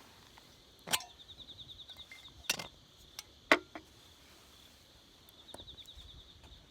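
A few sharp snaps, the loudest about three and a half seconds in. Under them a high, rapid chirping trill comes twice.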